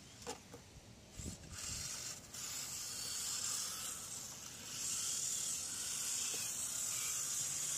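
Steady hiss of heavy rain, coming in about a second in and growing louder near the middle, with a few faint knocks just before it.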